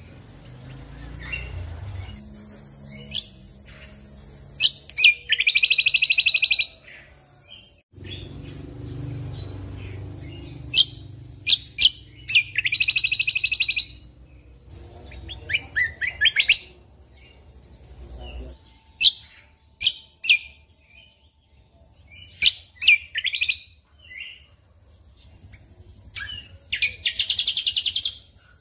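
Cucak kombo (kecial kombok) singing: sharp single chirps and quick notes broken by rapid trilled phrases about a second and a half long, three of them standing out as the loudest parts.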